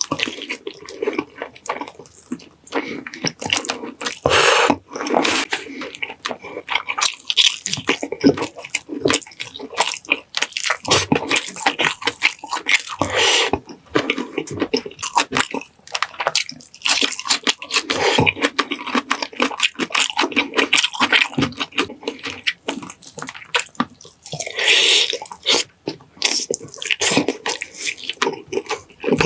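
Close-up wet chewing and mouth sounds of someone eating saucy pineapple chicken: a dense, irregular stream of quick sticky clicks and squelches.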